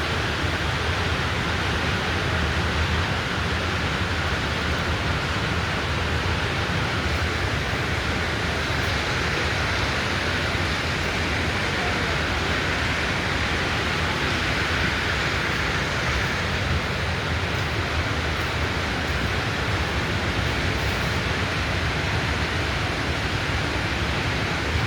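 Steady rushing hiss over a low hum from a compressor header bypass, with no change in level.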